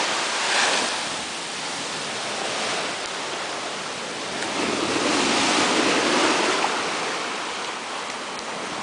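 Ocean surf breaking and washing up the beach: a steady rushing wash that swells louder around the middle of the stretch.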